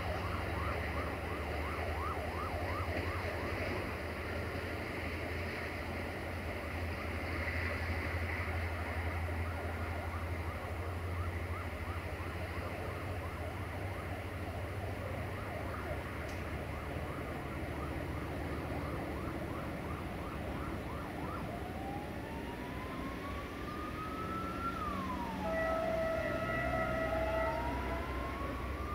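A departing passenger train hauled by a class 65 diesel locomotive: a steady low rumble with many quick clicks and ticks from the wheels over the rails and points. About two-thirds in, a siren starts wailing, rising slowly and dropping sharply, twice.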